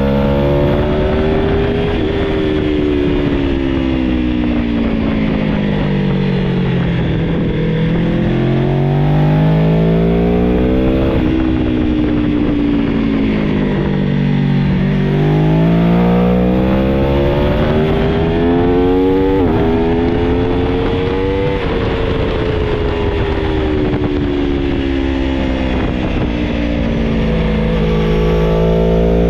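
2021 Aprilia Tuono Factory 1100's V4 engine on track. The revs climb hard and fall away several times, with sudden steps in pitch at gear changes, over rushing wind noise.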